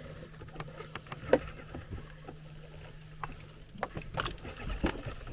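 A fishing boat's motor holds a steady low hum that stops a little before the end, with scattered light knocks and clicks against the boat.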